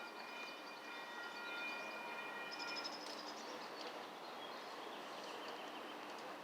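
Light rail train at a street crossing over a steady rumble. Several steady high ringing tones stop about three seconds in, leaving only the even noise with a few faint clicks.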